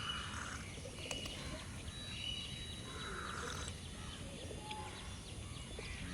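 Wild birds calling, one call repeating roughly every three seconds, with thin high chirps over a steady low rumble of background noise.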